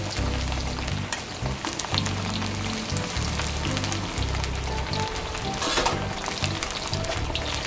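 Battered chicken pieces deep-frying in hot soybean oil in a wok: a steady sizzle with constant small crackles and a brief louder hiss about six seconds in.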